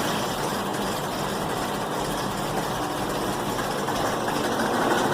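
2011 Chevrolet Equinox engine idling steadily just after being started. Its intake camshaft position actuator solenoid is faulty, and the technician blames it for the engine's drivability problems and stalling.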